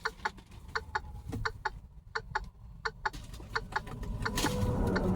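A hen clucking softly over and over in short, irregular clucks, with a low steady hum beneath and a rustling that grows louder near the end.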